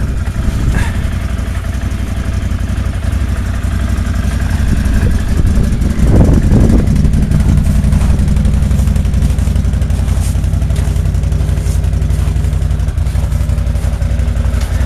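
ATV engine idling steadily, briefly louder about six seconds in.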